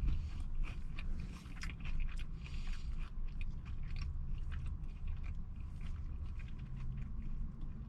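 Close-up chewing of a crispy fried chicken sandwich, with soft crunching from the breaded chicken in the first few seconds, over a low steady hum.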